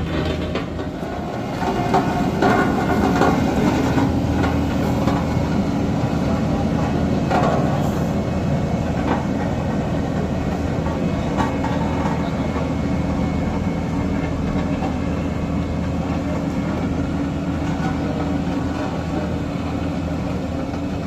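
A heavy diesel engine running steadily with a rattling clatter, getting louder about two seconds in.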